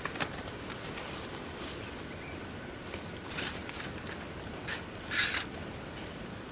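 Outdoor background with a few short rustling, crunching noises, the loudest about five seconds in.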